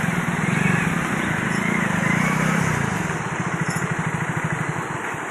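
A vehicle engine running with a steady low throb that turns into a more even pulse about three seconds in.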